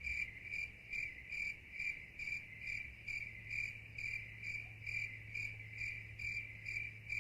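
Cricket chirping sound effect: one cricket's high chirp repeating evenly about twice a second, over a low steady hum, cutting off suddenly at the end.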